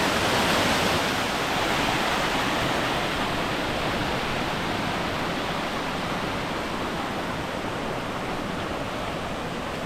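Steady rush of falling water from the Soco Falls waterfall, growing slightly quieter over the course of the sound.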